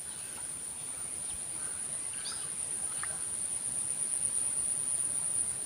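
Insects giving a steady, high-pitched drone, with a faint short chirp about two seconds in.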